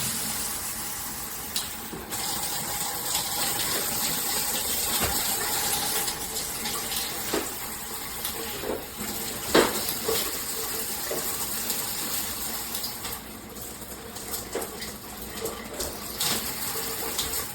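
Handheld shower head spraying water in a steady, dense hiss, with scattered small clicks and one sharp knock about halfway through.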